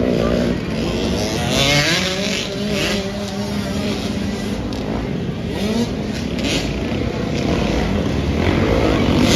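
Several motocross dirt bikes revving and accelerating, their engine notes rising and falling against one another over a steady low drone.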